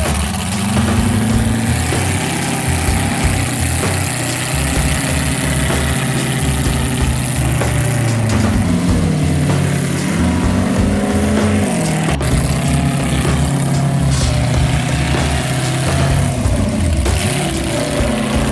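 Rock-racing off-road truck engine running under load, its revs rising and falling repeatedly, with one longer swing up and back down in pitch about eight to twelve seconds in.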